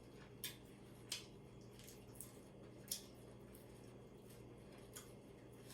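Near silence: room tone with a low steady hum and about five faint, brief clicks spread out over the stretch.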